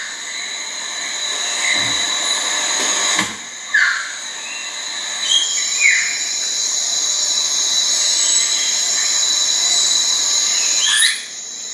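Steady high-pitched drone of forest insects, with a few short, sharp bird sounds over it.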